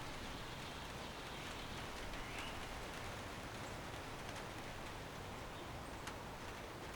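Steady backyard ambience: an even hiss of wind in the trees over a low distant city background. A faint short chirp about two seconds in and a light tick about six seconds in.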